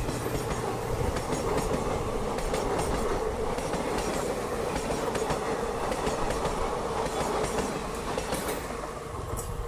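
Passenger coaches of a diesel-hauled Indian train rushing past at speed: a steady rumble of wheels on rail with repeated clicks as the wheels cross the rail joints. It eases off near the end as the last coaches move away.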